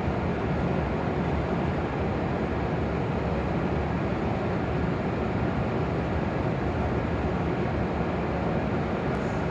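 Steady, even hum and rushing noise of an E7 series Shinkansen standing at the platform, its onboard equipment running while it waits to depart.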